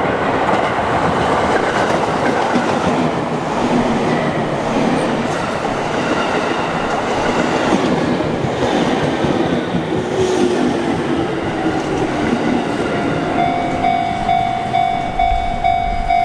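Sotetsu Line electric train running past at a level crossing: continuous loud wheel and track noise with a faint whine shifting in pitch. About three seconds before the end a repeated pulsing tone starts.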